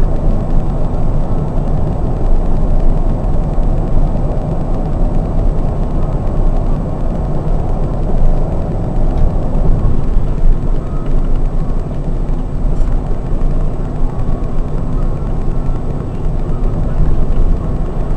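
Scania K420 double-decker coach driving along the highway: steady engine and road noise, with a low drone throughout.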